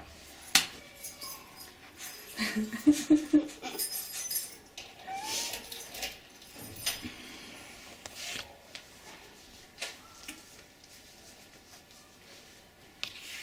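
Glasses being hand-washed in a kitchen sink: glass clinks, splashes of running tap water and a few short squeaky whines.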